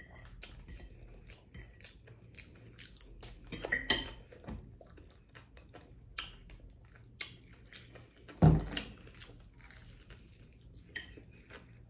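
Close-up eating sounds: chewing of fried fish with coleslaw, with many small mouth clicks and fork taps on a plate. One louder thump comes about two thirds of the way through.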